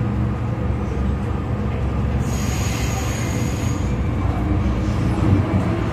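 MTR Kwun Tong Line M-Train running on the line, a steady low rumble. About two seconds in, a thin high-pitched whine rises above it for a second and a half.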